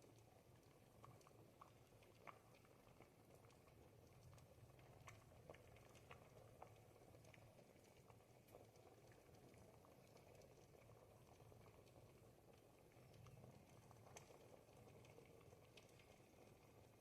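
Pot of thick ribollita soup simmering, faint soft bubbling with scattered small pops.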